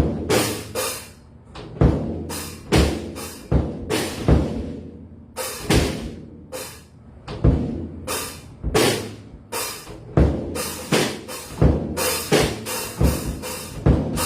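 Drum kit being played: snare and bass drum hits in an uneven, loose pattern, with a cymbal washing out about four seconds in.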